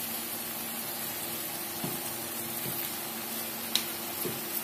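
Vegetables, sausage and egg sizzling steadily in a wok with a little water and sweet soy sauce, with a few light clicks of a metal spatula against the pan as it is stirred.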